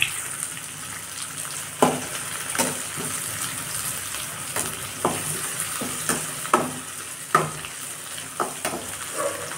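Sliced onions, dried red chillies and curry leaves sizzling in hot oil in an aluminium kadai while being stirred with a perforated metal skimmer. The skimmer scrapes and knocks against the pan roughly every second over a steady sizzle.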